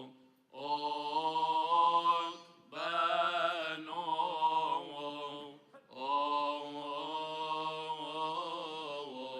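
Solo male voice chanting a Coptic Orthodox liturgical melody, holding long, slowly wavering notes in three drawn-out phrases separated by brief pauses.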